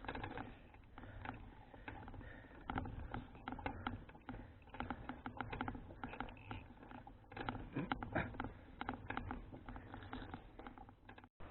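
Folding bicycle rattling and clicking as it is ridden: a dense, irregular patter of small taps over a low rumble, cutting out briefly near the end.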